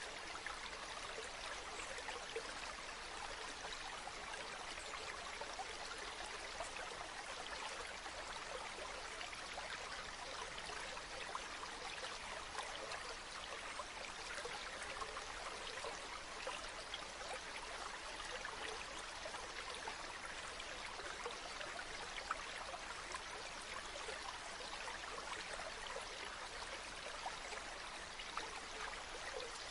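A river running steadily, water flowing and trickling over rocks in an even rush with small splashes throughout.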